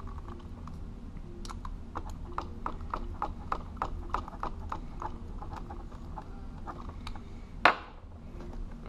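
Small, irregular clicks and ticks of a screwdriver turning the terminal screw on a plastic lampholder, about two to three a second, with one louder click near the end.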